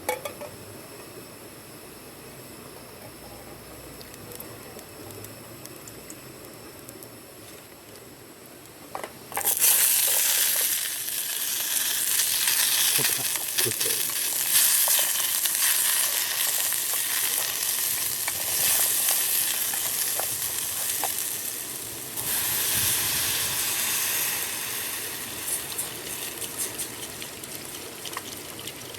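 Food sizzling hard in hot oil in a pan, starting suddenly about nine seconds in after a quiet stretch, then easing off toward the end.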